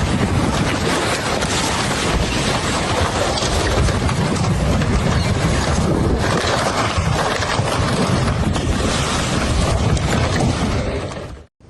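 Floodwater rushing loudly, with wind buffeting the microphone. The sound cuts off abruptly near the end.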